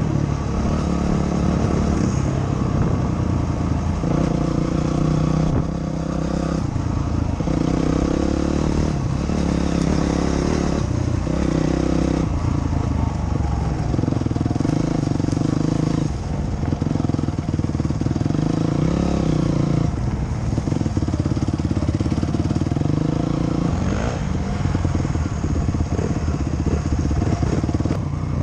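Dirt bike engine running loud and close, its pitch stepping up and down every second or two as the throttle is opened and closed.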